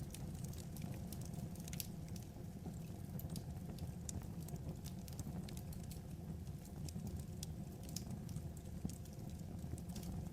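Wood fire crackling: a steady low rumble of the burning logs with many small irregular pops and snaps.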